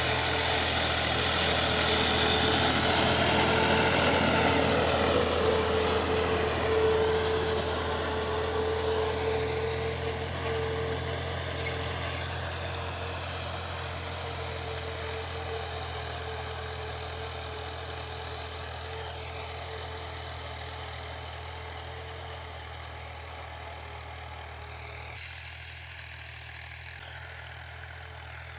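Tractor diesel engine running steadily, with a steady whine above it. It grows a little louder early on, then fades gradually as it draws away.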